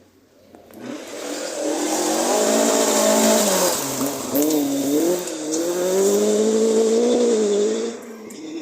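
Rally car driven flat out on a forest stage, its engine revving hard. The pitch climbs, drops sharply about four seconds in as the revs fall, then climbs again before the sound falls away near the end. A loud hiss of tyres and spray runs under it.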